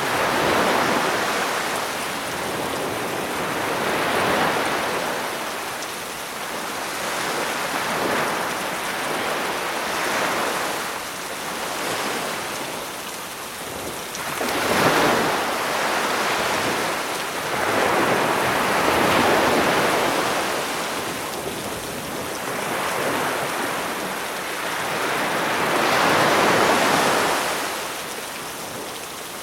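Sea waves breaking on the shore and washing back, swelling about every four to seven seconds, over a steady hiss of rain.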